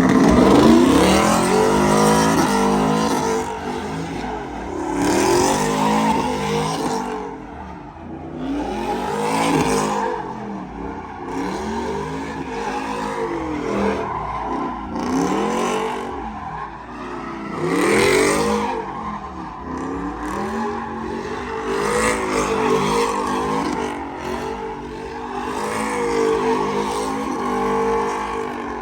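A vehicle's engine revving up and down again and again, with tires squealing as they spin in a burnout.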